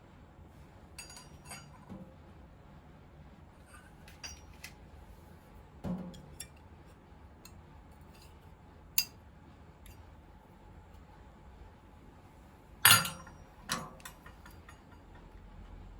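Scattered metallic clinks and light knocks of tools and faucet parts being handled, with a duller knock about six seconds in and the loudest, a pair of clinks, near the end.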